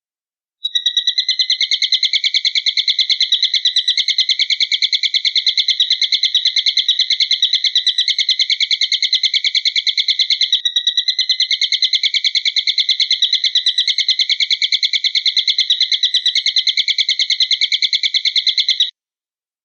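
A recorded call billed as an eagle's, played for songbird tutoring. It is a high, rapid, evenly pulsing trill, held almost unbroken, with a brief catch about halfway through, and it stops shortly before the end.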